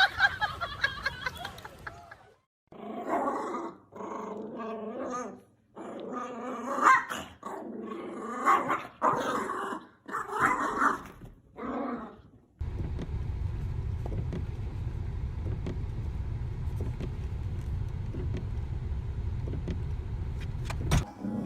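A dog vocalizing in several short bouts, then a steady low hum about halfway through.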